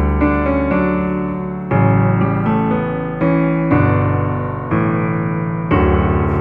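Background piano music, calm chords struck about once a second over a deep bass note renewed every two seconds.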